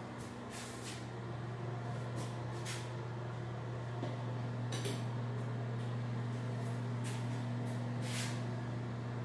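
A steady low electrical hum, with several short soft hisses at intervals.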